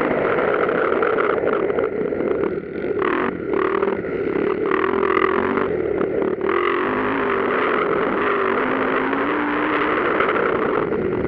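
Motocross motorcycle engines revving during a race, their pitch rising and falling as the riders work the throttle and shift. The recording is heavily distorted and noisy.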